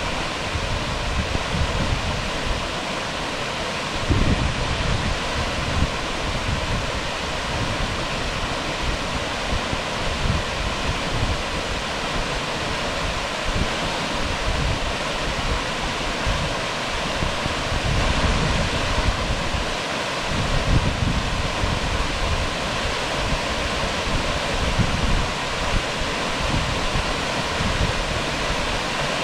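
Waterfall rushing: a steady, dense hiss of falling water, with irregular low gusts of wind buffeting the microphone.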